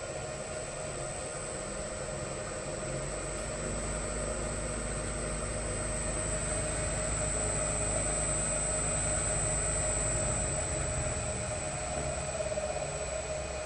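An electric motor runs on the freshly repaired LS FP5 SV055FP5-4 inverter during a test run. It gives a steady high-pitched whine over a low hum. The sound grows gradually louder for most of the run and eases off near the end.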